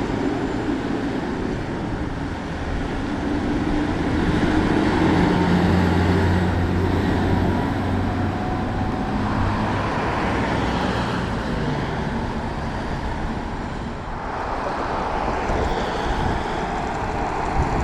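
Road traffic: a heavy vehicle's engine running as it drives past, with tyre and road noise, loudest a few seconds in.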